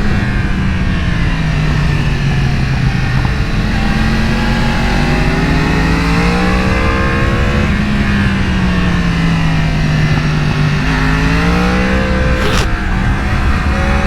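Sportbike engine running under load, its note falling and rising several times as the bike slows and accelerates again, with a brief sharp click about twelve and a half seconds in.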